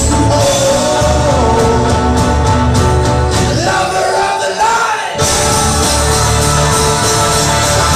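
Folk-rock band playing live, loud, with singing over the instruments. The low end drops out briefly in the middle, then the full band comes crashing back in with cymbals.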